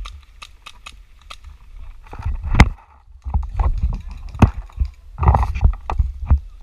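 A run of sharp, irregular clicks and knocks over a low rumble, with the loudest knocks about two and a half and four and a half seconds in.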